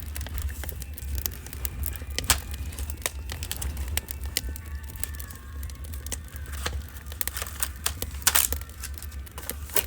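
Wood fire crackling, with irregular sharp pops and snaps, the loudest about two seconds in and again near the end, over a steady low rumble.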